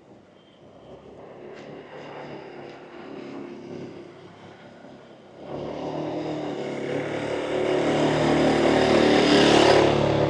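A motor vehicle's engine coming close and passing by on the street. Its running note starts abruptly about halfway through, swells to its loudest near the end, then falls away quickly.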